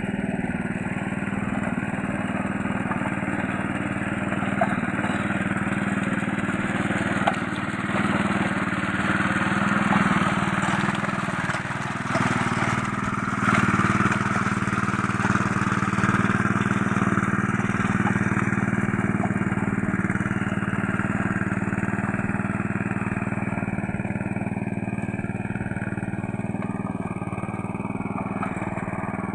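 Small two-wheel rice-field tractor's engine running steadily, working through deep, muddy paddy, a little louder for a few seconds in the middle.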